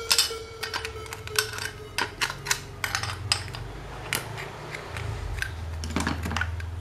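Irregular light clicks and clinks of small hard parts being handled, over a low steady hum.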